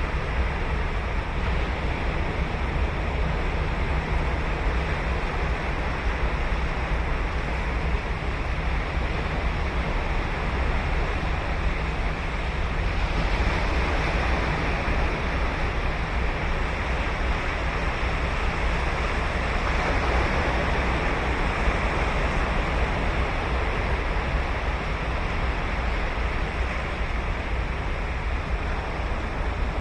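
Ocean surf breaking and washing on a sandy beach, a steady roar that swells a little twice as waves come in, with low rumble that may be wind on the microphone.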